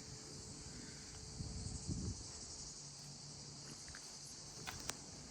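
Insects chirring steadily in a high, even hiss, with a few soft low thumps about two seconds in.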